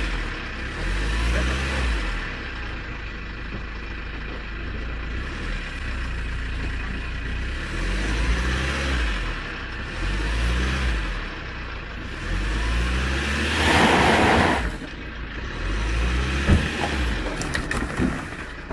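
Truck engine running and revving again and again, its pitch rising with each rev. A loud rushing burst comes about fourteen seconds in, and there are a couple of sharp clicks near the end.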